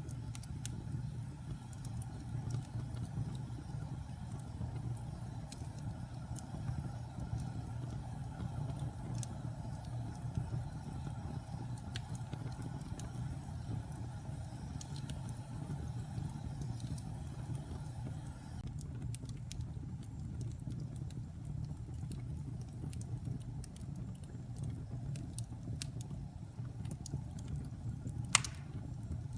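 Wood fire burning in a fireplace: a steady low rumble with scattered crackles and snaps, and one sharper pop near the end.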